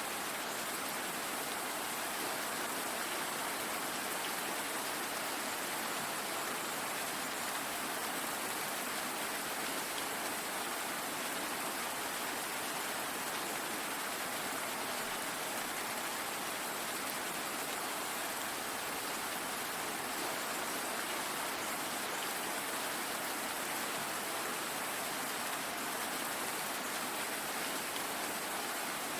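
Steady, even rainfall with a constant hiss and faint scattered drop ticks.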